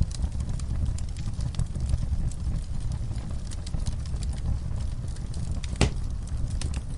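Wood fire in an outdoor firepit crackling, with many small irregular pops over a steady low rumble of burning. One louder pop comes near the end.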